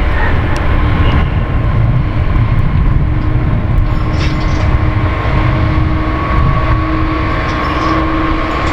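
A train running past, with a steady rumble and a few held tones from its drive.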